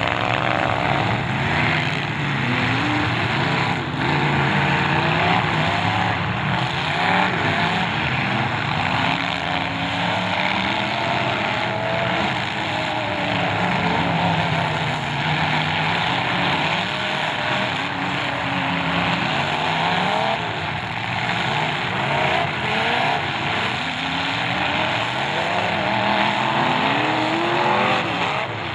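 Several demolition derby cars' engines revving up and down together, their pitches rising and falling as they accelerate and ram each other, with a few thuds of collisions mixed in.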